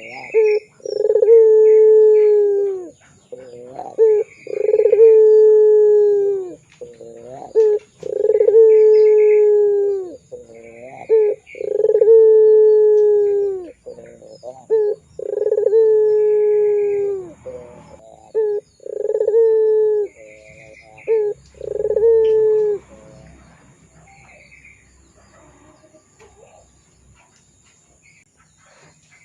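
Puter pelung turtle dove cooing: about seven long, drawn-out coos of two to three seconds each, roughly every three and a half seconds, each ending with a short dip in pitch and short notes in between. The cooing stops after about 23 seconds, leaving only faint chirps.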